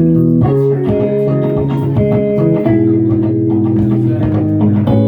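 Electric guitar, a Fender Jazzmaster, playing overlapping sustained notes over low bass notes that change every half second or so, in an instrumental passage.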